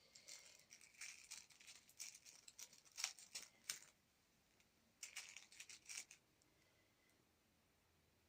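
Faint rustling and crinkling as a cat bites and paws at a flamingo toy, in two spells, the second about five seconds in.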